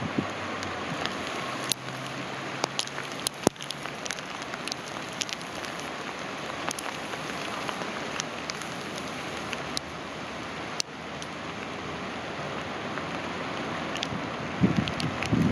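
Heavy rain mixed with hail falling steadily, with many sharp irregular ticks of stones and drops striking close by. Wind buffets the microphone near the end.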